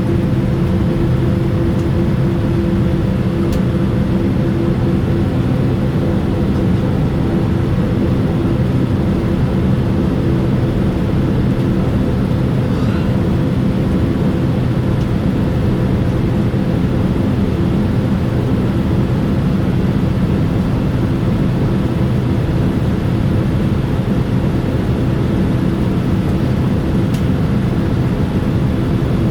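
Boeing 787-9 engines running, heard from inside the passenger cabin: a steady, even rumble with a faint hum on top.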